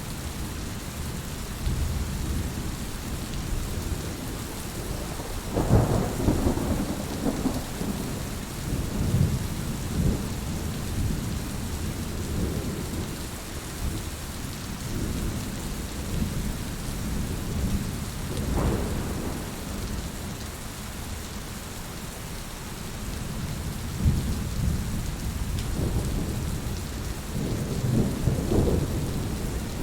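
Heavy rain falling steadily, with low rolling rumbles of thunder swelling up several times; the loudest comes about six seconds in, with others near the middle and near the end.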